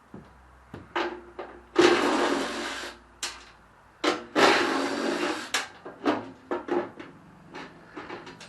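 A power tool runs in two bursts of about a second each, with clicks and knocks of parts being handled around them.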